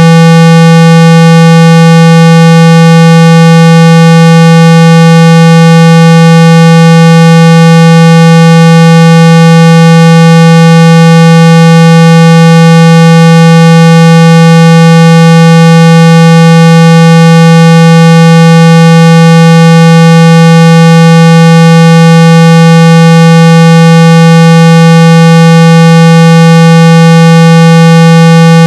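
A steady, very loud 165 Hz tone with a buzzy edge from many overtones, holding one pitch without a break. It is a speaker-cleaning tone, played to vibrate water and dust out of an iPhone's speaker.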